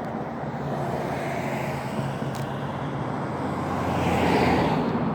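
Road traffic: a steady low engine hum and tyre noise, swelling as a vehicle passes about four seconds in and easing off near the end.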